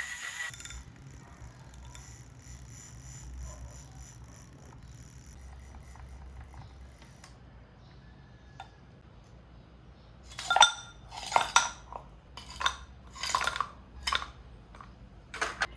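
Dishes and cutlery clinking: about eight sharp, ringing knocks come over the last five seconds, after a stretch of quiet low hum. A short hiss at the very start stops under a second in.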